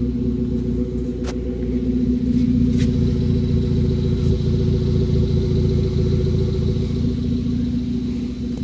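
Hyundai i20 running with its rear muffler removed: a loud, low, pulsing exhaust note that stays steady. Two brief sharp clicks sound about a second and nearly three seconds in.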